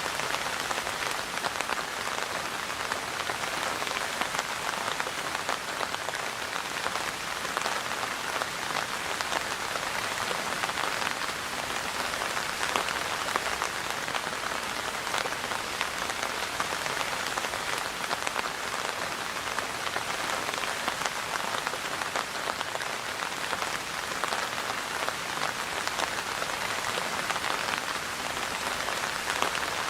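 Steady rain falling, a dense even hiss of many small drop ticks.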